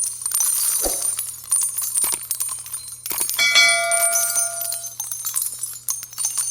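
Metallic clicking and jingling, with a single bell-like ding that rings on for about a second and a half, about three and a half seconds in.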